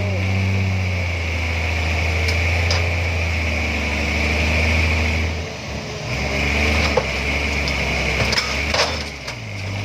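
Truck engine running steadily with a low hum, which dips and changes about halfway through. A few sharp knocks or rattles come in the last few seconds.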